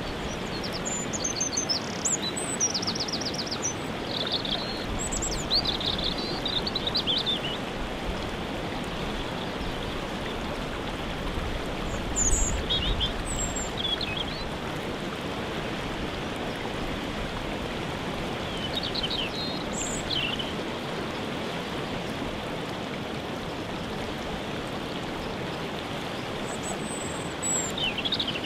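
Waterfall rushing steadily, with songbirds calling above it in short clusters of chirps and trills, busiest in the first several seconds and again briefly near the middle and at the end.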